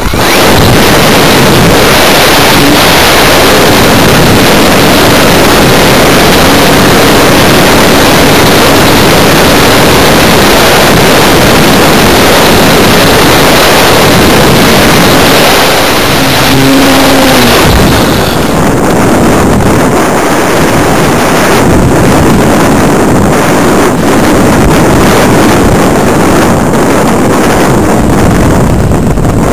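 Loud, steady rush of airflow buffeting the onboard camera's microphone on an electric RC glider in flight; the hiss thins somewhat after about eighteen seconds.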